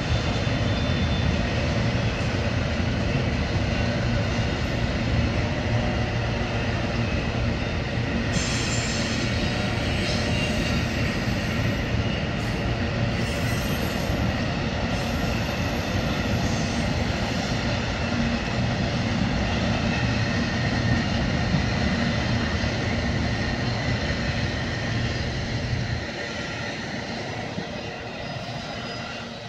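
A train passing close by: a steady, loud rolling rumble of wheels on rails with thin high tones over it. The low rumble drops away about 26 seconds in as it moves off.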